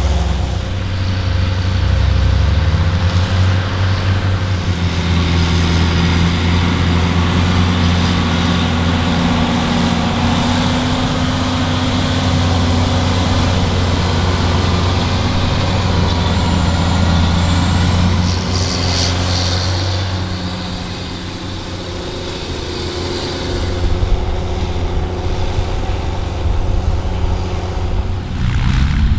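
Diesel engine of a large farm machine, such as a tractor or combine, running hard at steady revs. Its loudness sags briefly about two-thirds of the way through, and near the end the engine revs up with a rising pitch.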